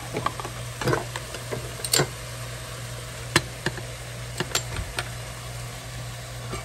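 Ground turkey, beef sausage and onions sautéing over high heat in a pot: a steady sizzle with scattered sharp pops and crackles, the loudest about three and a half seconds in, over a low steady hum.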